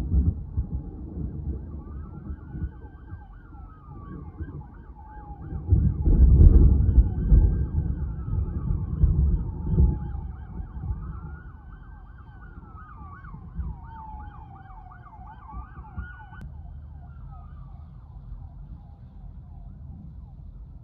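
Emergency vehicle siren wailing, rising and falling every few seconds, with a fast yelping warble laid over it; it cuts off about sixteen seconds in. Heavy low rumbling swells under it near the start and again around the middle.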